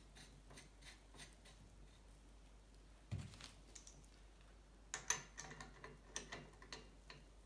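Faint clicks and taps of metal bicycle parts and hand tools being handled, with a dull knock about three seconds in and a quick run of sharper metallic clicks around five seconds.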